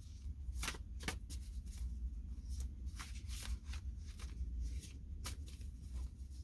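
A tarot deck being shuffled by hand: irregular snaps and flutters of the cards, over a low steady hum.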